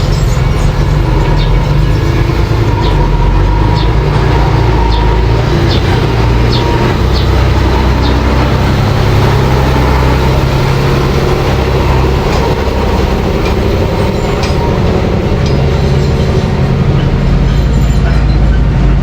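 Mini bulldozer's engine running steadily under work, with short metallic clicks and clanks every second or so.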